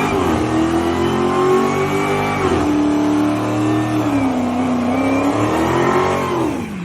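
Dodge Hellcat's supercharged V8 revving hard under acceleration. Its pitch drops sharply about two and a half seconds in, sags, climbs again and falls away near the end.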